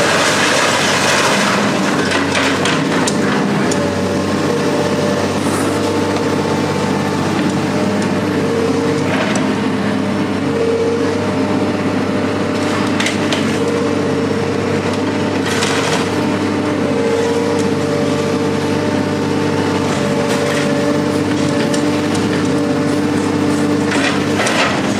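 Heavy machine's engine running steadily, with a few sharp knocks of metal against metal now and then.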